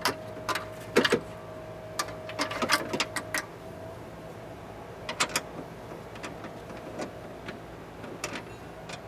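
Irregular metallic clicks and clinks of hand tools and fasteners worked on a car door's window regulator, some in quick clusters, over a faint steady hum.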